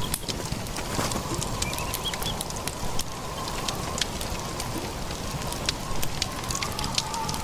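A steady hiss scattered with many sharp crackling clicks, under a faint wavering tone.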